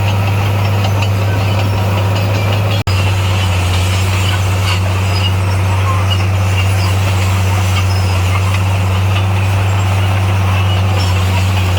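Heavy diesel engine of construction machinery running steadily with a constant low drone, cutting out for an instant about three seconds in.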